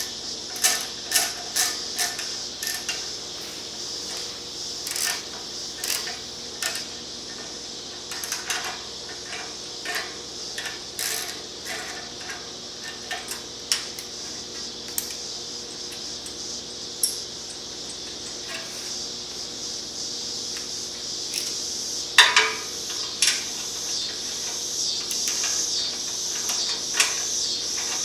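Hand tools clinking and tapping on metal in irregular clicks while the motorcycle's exhaust nuts and bolts are being loosened and removed.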